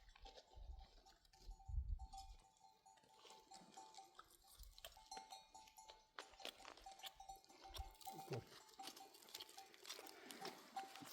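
Faint, intermittent ringing of bells worn by a grazing flock of sheep and goats, with small clicks throughout.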